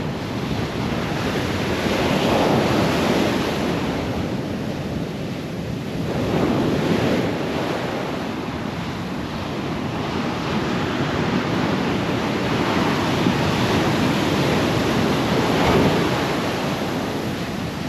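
Ocean surf breaking on a beach, swelling and easing every few seconds, with wind buffeting the microphone.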